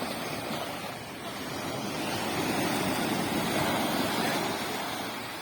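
Sea waves breaking on a beach: a wash of surf that swells to a peak a few seconds in and then recedes, with some wind on the microphone.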